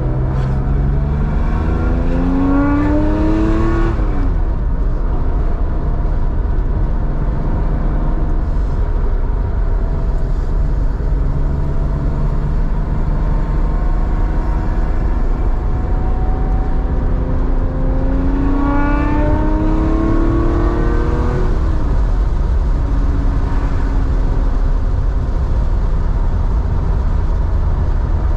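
1987 Porsche 911's air-cooled 3.4-litre flat-six, exhaling through a SCART two-in-one-out muffler, accelerating twice. Each time the pitch rises until a gear change drops it, once near the start and again about two-thirds of the way through. In between it cruises steadily with a deep drone.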